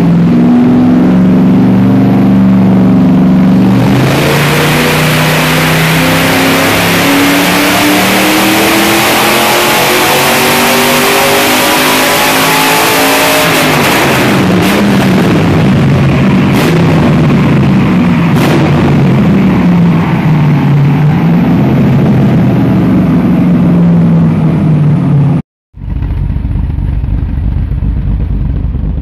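LS1 V8 with an aftermarket cam, swapped into a BMW E30, making a full-throttle pull on a chassis dyno. It runs steadily for a few seconds, goes to full throttle about four seconds in and climbs in pitch for about ten seconds, then lifts off with a few sharp pops and drops to an uneven, rising-and-falling note. Near the end the sound changes to a lower rumble from close to the tailpipe.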